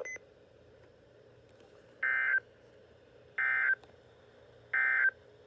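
Emergency Alert System end-of-message data bursts on NOAA Weather Radio: three short, buzzy digital squawks about a second and a half apart. They signal the end of the warning message.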